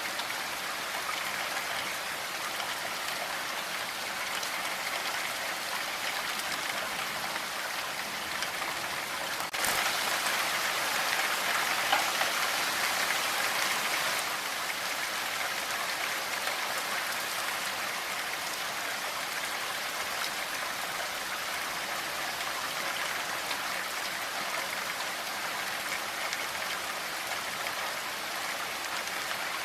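Steady rain falling as an even hiss of drops, growing louder for about four seconds about a third of the way in, then settling back.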